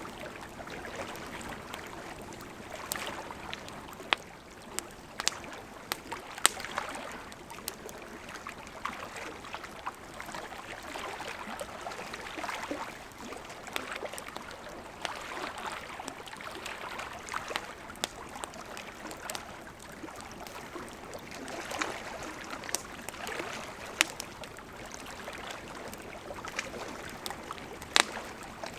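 Campfire crackling, with scattered sharp pops, over the steady rush of a gently flowing river.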